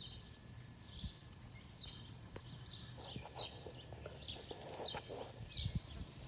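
Faint outdoor ambience: a bird chirping short, repeated calls about twice a second, with a few soft ticks and a low steady rumble underneath.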